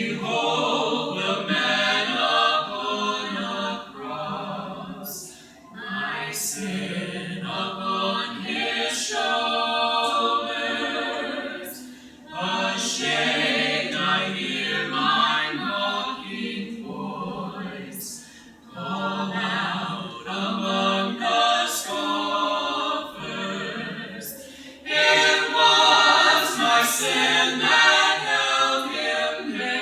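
Small a cappella vocal group singing a worship song in harmony, phrase by phrase with brief breath pauses, swelling louder near the end.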